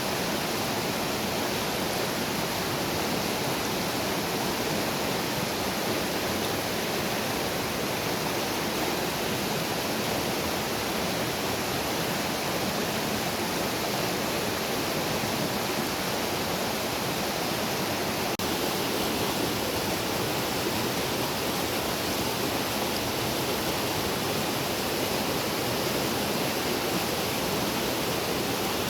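Steady rush of flowing water in a small river.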